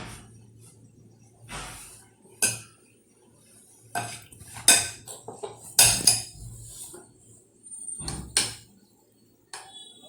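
A spoon clinking and scraping against a cup and bowl: a string of separate clinks, the loudest around five to six seconds in.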